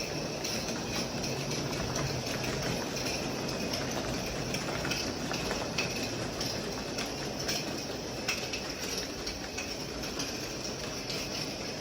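G-scale model train running along the track, a steady rolling noise with scattered light clicks from the wheels passing over rail joints.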